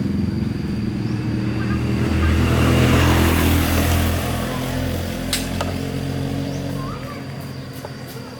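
A motor vehicle's engine running, growing louder to a peak about three seconds in and then slowly fading, as if passing close by, with a sharp click about five seconds in.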